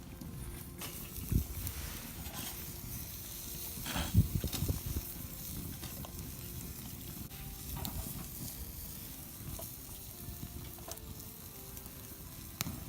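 Food sizzling in a pan over a campfire, a steady hiss, with a few knocks and clatters from utensils; the loudest are about four seconds in.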